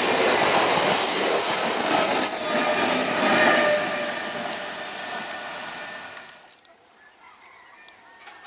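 Electric multiple-unit suburban train running past close by on a curve: wheels on the rails with a steady high squeal. The sound eases after about four seconds and falls away sharply at about six seconds.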